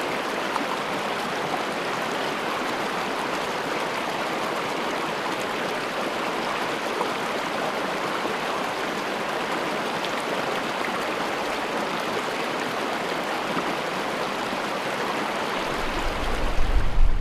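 Running water of a stream, a steady, even rush with no change in level. About a second before the end a heavy low rumble comes in underneath.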